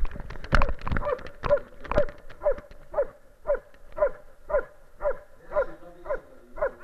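A dog barking in a steady rhythm, about two short barks a second.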